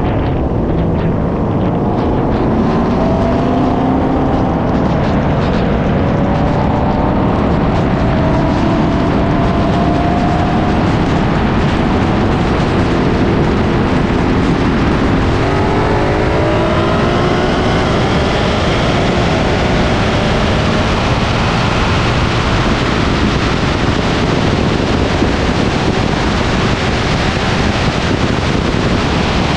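V8 sports cars at full throttle in a roll race from 60 mph: the engine note rises in pitch through each gear and drops back at the upshifts, under heavy wind and road rush.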